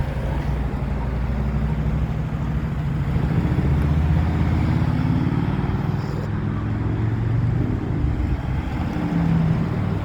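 A motor vehicle's engine running close by, a steady low drone that grows gradually louder over the first few seconds and shifts slightly in pitch near the end.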